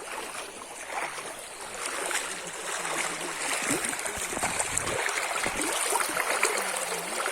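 Running water, a stream flowing and trickling with small splashes, growing louder over the first few seconds.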